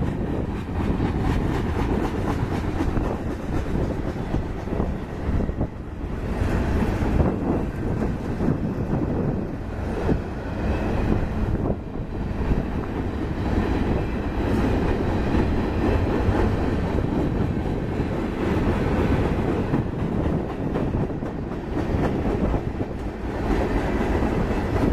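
Freight cars of a mixed freight train rolling past: a steady rumble of steel wheels on rail with a run of clicks over the joints and a faint high wheel squeal around the middle.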